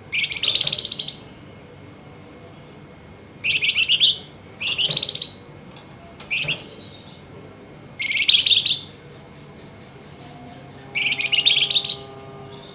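Flamboyan songbird giving six short, harsh, rapidly pulsed chattering bursts, each about half a second to a second long and high-pitched, separated by pauses of one to two seconds. This is the bird's excited, high-energy 'nyerecet' call.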